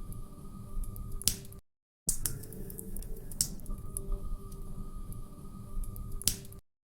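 Wood fire crackling in a fireplace: irregular sharp pops and snaps over a low rumble. The sound drops out to silence for a moment about one and a half seconds in and again near the end.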